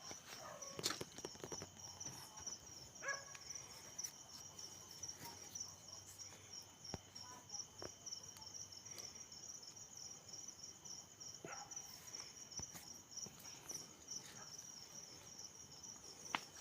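Crickets chirping, a fast steady pulsing trill, with a few sharp clicks scattered through it.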